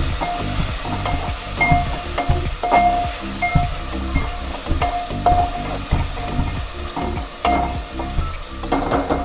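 Onions and freshly added tomatoes sizzling in hot oil while a metal slotted spoon stirs and scrapes them around a metal pot, with short metallic rings each time the spoon knocks the pot.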